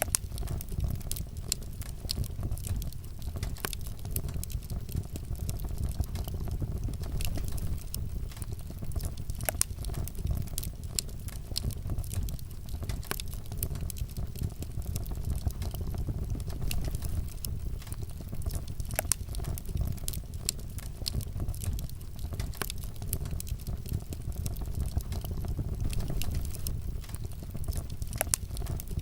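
Wood fire burning in a fireplace, with a steady low rumble of flames and irregular sharp crackles and pops.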